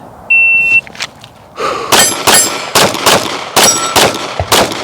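A shot timer beeps once, and about a second and a half later a 9mm Glock 45 pistol opens fire in a fast string of roughly eight or nine shots, about three a second. Several hits ring a steel target.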